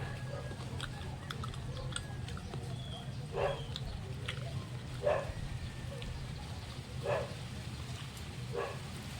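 A dog barking in single barks, four of them about every one and a half to two seconds, over a steady low hum.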